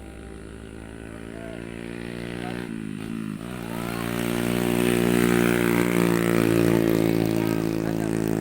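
An engine running with a steady hum. Its pitch dips briefly about three seconds in, then holds steady as it grows louder.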